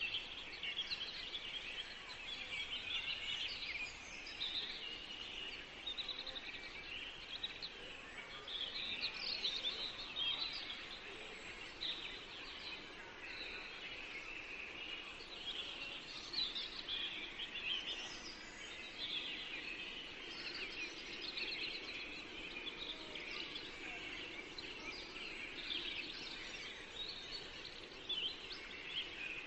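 Songbirds chirping and singing in a continuous chorus of many short, high calls over a faint steady background hiss.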